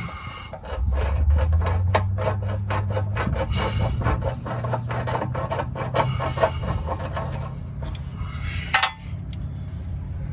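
Rapid, even scraping strokes on metal, about five a second, likely at the tractor wheel rim. About a second in, a steady low engine hum starts underneath them, and there is one sharp click near the end.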